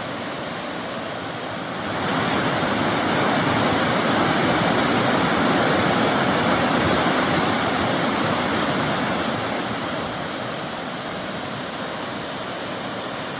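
Waterfall rushing: a steady wash of falling water that swells about two seconds in and eases off again near the end.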